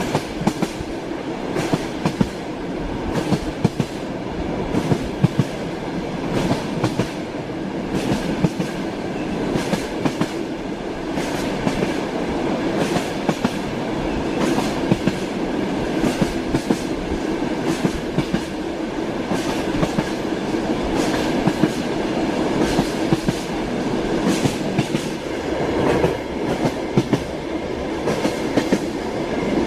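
Train wheels clattering over the rails while running at steady speed: a continuous rumble with frequent, irregular sharp clicks and knocks.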